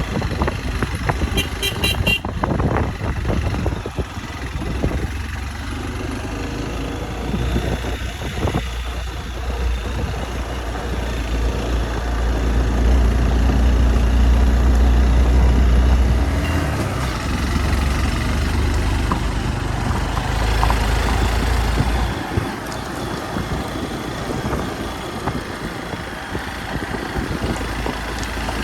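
Hero Xpulse 200 motorcycle's single-cylinder engine running while riding, louder for a few seconds around the middle. A quick run of short horn beeps sounds about a second in.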